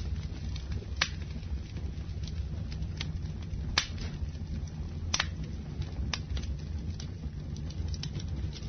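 Campfire crackling: a steady low rumble of burning with sharp, irregular pops and snaps. The loudest pops come about one, four and five seconds in.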